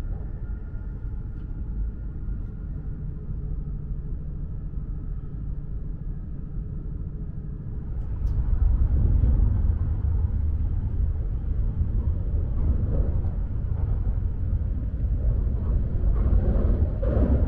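E5 series Shinkansen running at speed, heard from inside the passenger cabin as a steady low rumble. About eight seconds in it grows noticeably louder and rougher.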